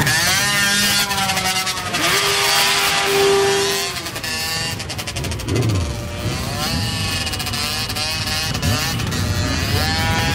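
A stream of motorcycles riding past, several engines at once revving up and down so their pitch rises and falls.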